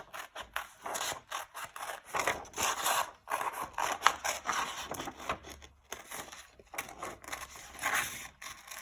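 Scissors cutting a circle out of paper: an irregular run of short snipping and rasping strokes, with one sharper click about four seconds in.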